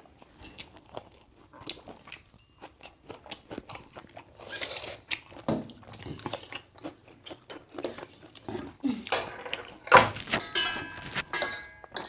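Close-up eating sounds: chewing and biting into food, with many small wet clicks and smacks. A louder cluster of noise comes about ten seconds in, and a brief clink-like ring follows near the end.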